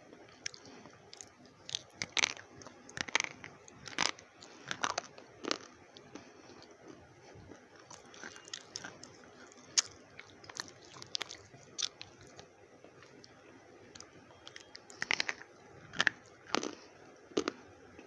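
Slate pencils being bitten and chewed: irregular sharp, brittle crunches, coming in two clusters with softer chewing between.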